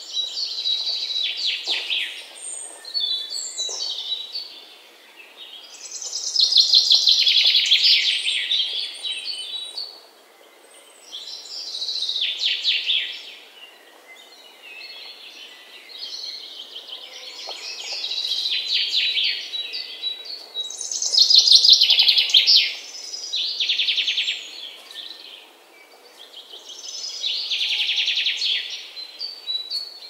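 Bird song: phrases of rapid, high trilling notes, each one to three seconds long, repeated every few seconds with short pauses between.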